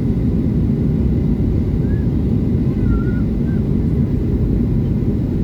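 Steady low rumble of an airliner cabin in flight: engine and airflow noise heard from inside the plane.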